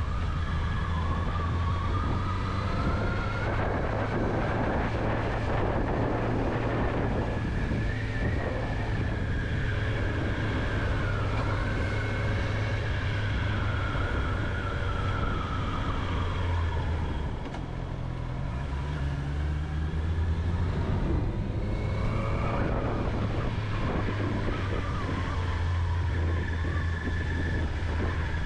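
Honda CB650R's inline-four engine running while riding: a steady low drone with a higher tone wavering up and down. About two-thirds of the way through it eases off briefly, then picks up again.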